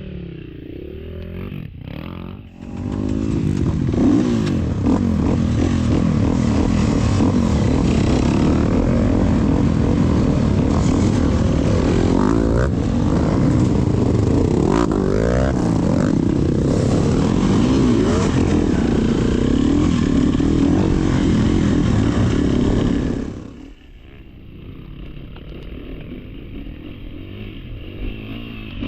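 Trail motorcycle engine revving up and down while riding, loud from about three seconds in, dropping abruptly to a quieter, lower running sound near the end.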